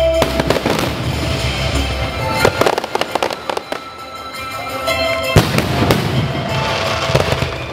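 Aerial firework shells bursting in clusters of sharp bangs, the loudest about five and a half seconds in, over music playing throughout.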